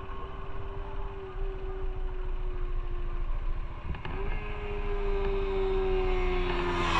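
Motorcycle engine running under way, its note slowly falling, with a short break about four seconds in after which the pitch jumps back up and falls again. A steady low rumble of wind and road lies underneath.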